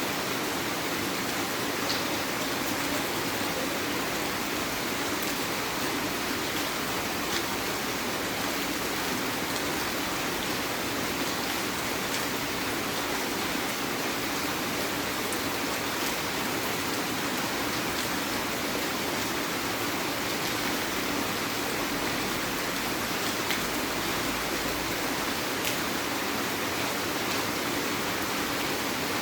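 Heavy rain falling steadily: a continuous hiss, with now and then a single drop ticking out above it.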